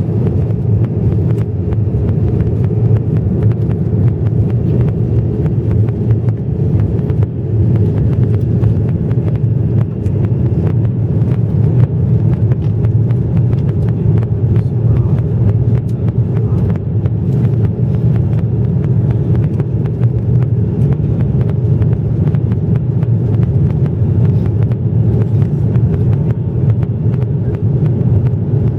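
Steady low rumble of an Airbus A330-300 jet airliner's engines and airflow, as heard inside the cabin in flight after takeoff.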